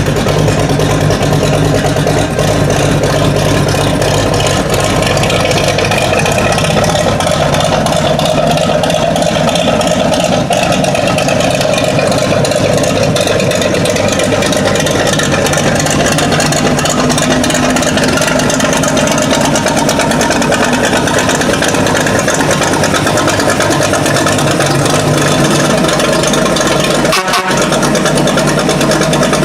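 A vehicle engine running steadily, with a brief break about 27 seconds in.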